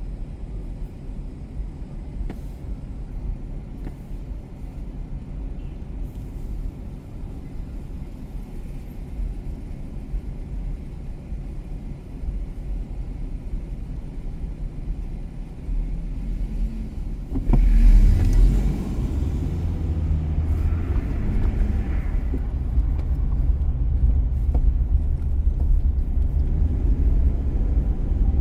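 Car driving on city streets: a steady low road and engine rumble. About 17 seconds in there is a brief louder surge of noise, and the rumble stays heavier after it.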